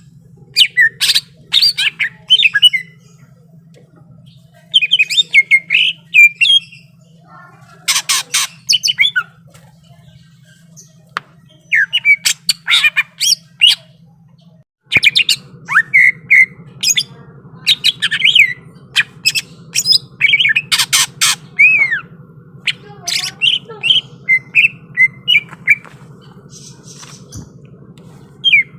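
Greater green leafbird (cucak ijo) singing in loud, sharp phrases of rapid chattering and whistled notes, with pauses of a second or two between phrases, over a faint steady low hum.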